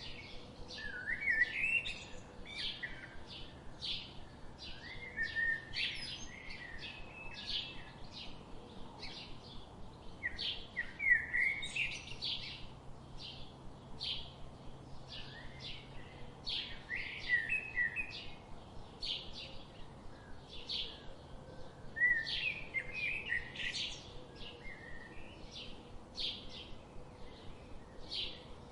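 Birds chirping and singing: a steady series of short, high chirps, about two or three a second, broken every few seconds by a bout of warbling song.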